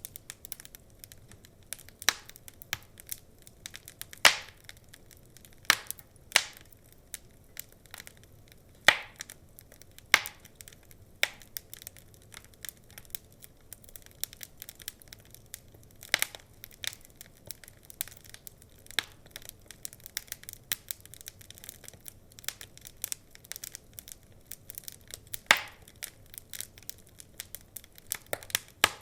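Wood fire crackling in a fireplace: a steady scatter of small irregular crackles, with a handful of louder sharp pops from the burning logs.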